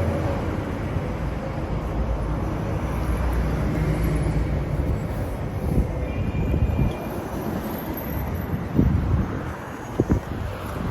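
Steady low outdoor rumble of background noise, with a few short knocks near the end.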